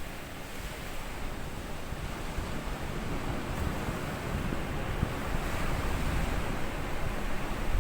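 Small sea waves washing onto a sandy beach, a steady surf hiss that builds slowly as a wave comes in, loudest near the end.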